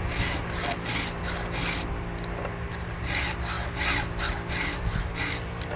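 Round file stroking across the cutters of a chainsaw chain in short, even swipes, about three a second, with a pause of about a second near the middle. The file runs smoothly, the sign of sharp, burr-free teeth that need only a touch-up.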